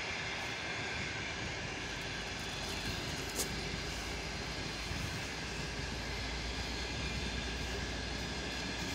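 Passenger coaches of a train rolling past on the rails: a steady rumble and rail noise that grows heavier in the low end about halfway through, with a single sharp click about three and a half seconds in.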